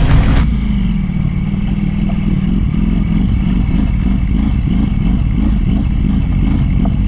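A motorcycle running while being ridden: a steady low rumble of engine and road noise.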